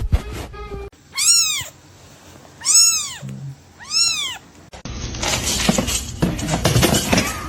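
A domestic cat meowing three times, each call rising and then falling in pitch, about a second and a half apart. Near the end of the meows a louder, busier noise sets in and runs on.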